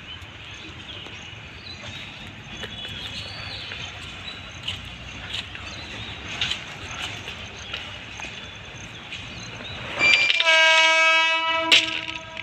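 A WAG12 electric locomotive's horn gives one steady single-tone blast about ten seconds in, lasting about a second and a half. Before it there is a steady background hiss with scattered faint chirps.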